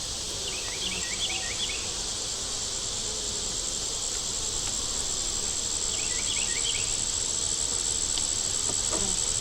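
Defensive honey bees buzzing around an opened hive in a steady, dense hum, with a high steady insect trill above it. Two short runs of small high chirps come through, near the start and about six seconds in.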